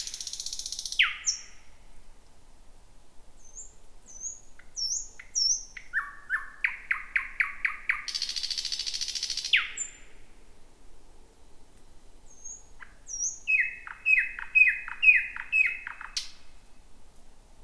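Thrush nightingale singing at night, a varied song of loud fast repeated notes, high thin down-slurred whistles and a long harsh rattle about eight seconds in. Near the end comes a series of about five sharp repeated notes.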